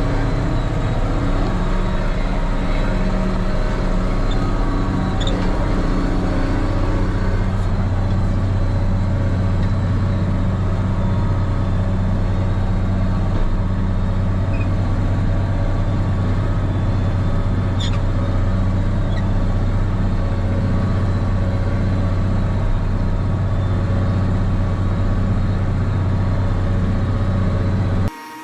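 Case 2670 tractor's diesel engine running steadily under load while pulling a chisel plow, a deep even drone. It cuts off abruptly near the end.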